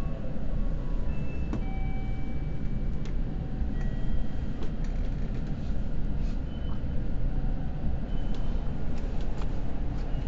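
Seibu Red Arrow limited express train running, heard from inside the carriage: a steady low rumble of wheels and running gear, with scattered light clicks and a few brief faint high squeals.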